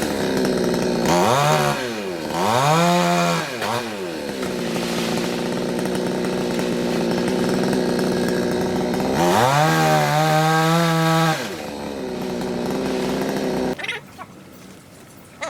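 Large two-stroke chainsaw blipped up and down twice, then held at a steady speed. About nine seconds in it revs high again for a couple of seconds, then drops back. Near the end the engine sound falls away abruptly.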